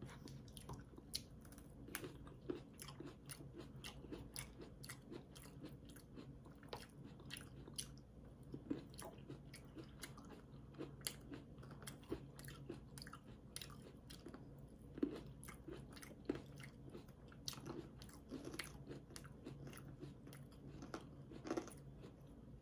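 People chewing and biting food, with many small irregular crunches and wet mouth clicks, several a second.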